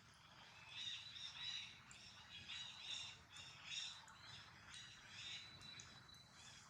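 Faint bird chirping: short high calls repeating in quick succession.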